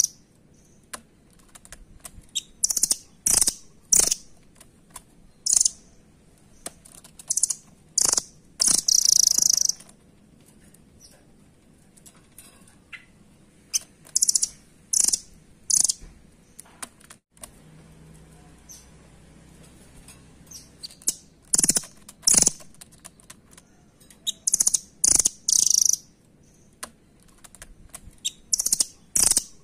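Nuthatch (rambatan) calling: clusters of short, sharp, very high-pitched chirps in quick runs, with pauses of a few seconds between runs.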